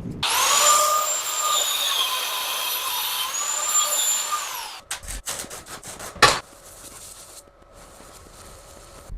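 Power tool running with a loud high whine for about four and a half seconds, its pitch dipping and rising slightly as it works. A run of clicks follows, then a sharp knock about six seconds in, and a faint steady hum near the end.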